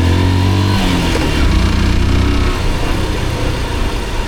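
Motorcycle engine accelerating, its pitch rising, then easing off about a second in.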